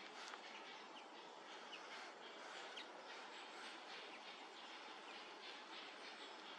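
Quiet woodland ambience: a faint steady hiss with a few faint, short bird chirps scattered through it.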